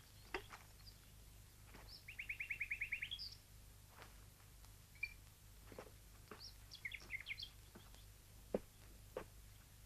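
Songbird birdsong: a rapid trill of about ten notes some two seconds in, then a cluster of short chirps about six and a half to seven and a half seconds in. A few soft clicks fall between them.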